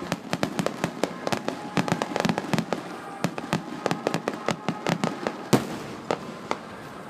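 Fireworks bursting in a rapid barrage of sharp bangs and crackles, one bang louder than the rest about five and a half seconds in, after which the bursts thin out to a few.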